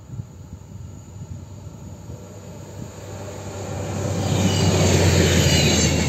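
Red passenger multiple-unit train passing at speed: the rush of wheels on rail swells from about three seconds in to its loudest near the end, over a low hum.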